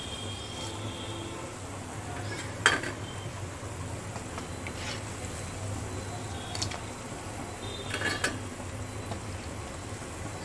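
Vadas deep-frying in hot oil with a steady sizzle, while a steel slotted spoon scrapes and clinks against the frying pan as it lifts them out. There are four sharp clinks a couple of seconds apart, and the first is the loudest.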